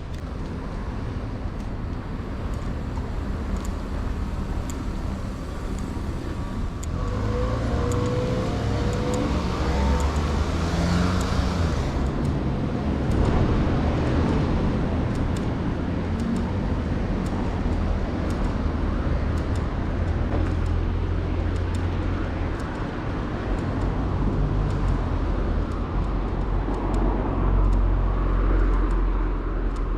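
Street traffic: cars passing by over a steady low road rumble, one vehicle going past loudly about ten seconds in.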